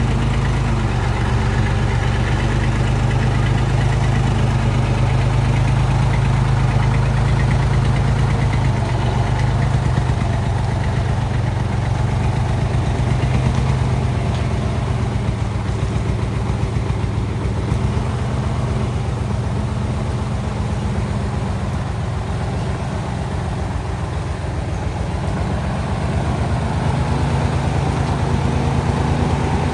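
Heavy truck's diesel engine running steadily on the move, with a dense, rapid pulsing from about a third of the way in and a slight dip in level near the end.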